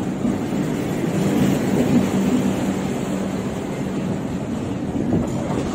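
Passenger coaches of an express train rolling past, a steady rush of steel wheels on rail with a clickety-clack and a low hum.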